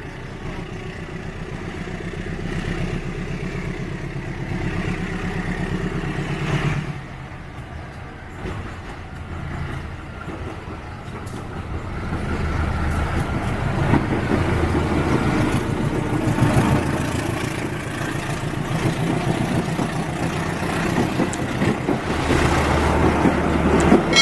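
Diesel locomotive engine running hard as a passenger train passes. The rumble changes about seven seconds in, then grows louder from about halfway through.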